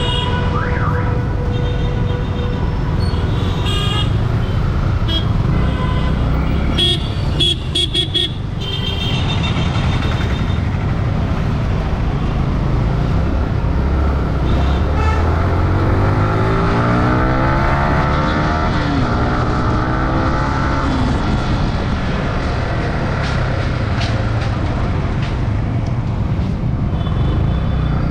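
Motorcycle engine running steadily while riding in road traffic, with its pitch climbing in the middle as it accelerates. Vehicle horns honk several times, near the start and about seven to nine seconds in.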